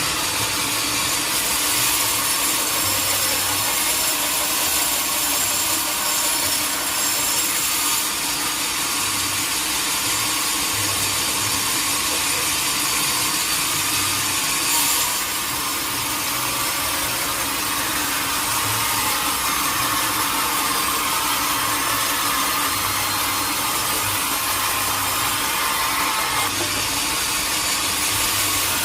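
Sawmill saw cutting steadily through a teak log, a continuous hissing rasp of the blade in the wood.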